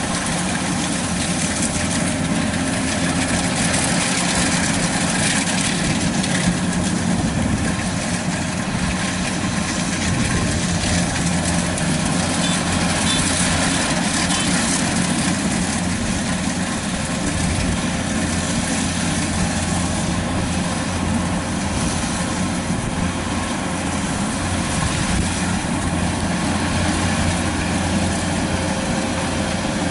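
Kubota DC-93 combine harvester's diesel engine running steadily as the machine cuts rice.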